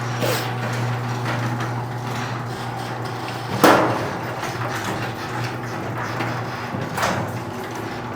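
Garage door rising: a steady low hum with a loud clank about three and a half seconds in and a lighter one near seven seconds. Its metal rollers in the tracks are not yet lubricated, and the owner finds it runs less smoothly than it could.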